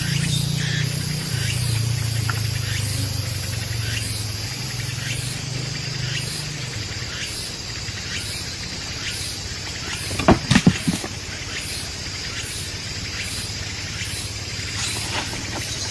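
Forest insects singing in a high, even pulsing rhythm of about one and a half pulses a second. A low hum fades out in the first half, and a short cluster of knocks comes about ten seconds in.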